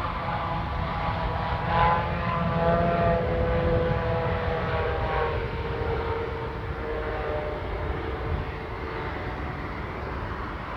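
Airbus A320neo jet landing: a steady low rumble with an engine whine that falls in pitch as the aircraft passes.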